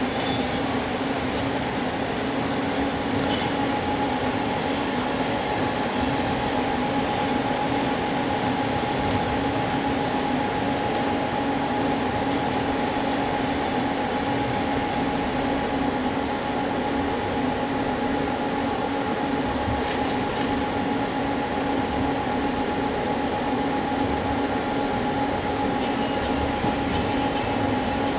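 Steady rumble and wheel noise of a moving express passenger train, heard from inside the carriage at its window, with a steady two-tone hum over it.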